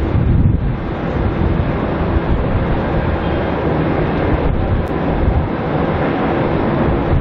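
Twin-engine jet airliner's engines running steadily as it passes on its landing approach, with wind buffeting the microphone.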